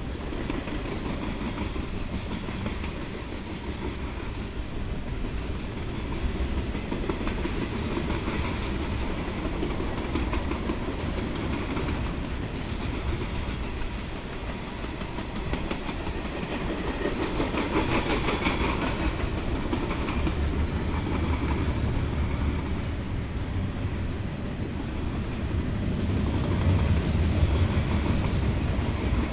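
Freight cars rolling past on the track: a steady rumble of steel wheels on rail, growing louder near the end.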